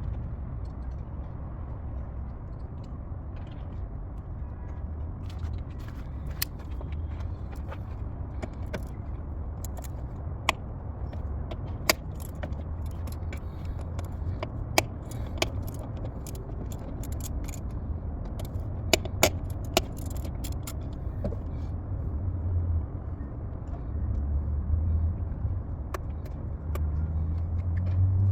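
Scattered sharp metallic clicks and clinks of hand tools working on car engine parts, over a steady low rumble.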